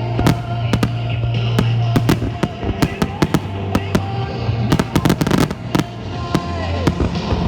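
Fireworks going off in rapid succession, many sharp bangs and crackles, some in quick clusters, over music with sustained notes.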